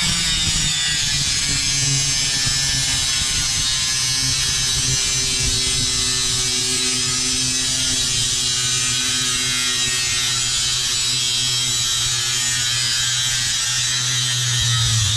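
Handheld electric power tool running steadily with a constant buzzing pitch, cutting through a door to shorten it; it grows a little louder near the end.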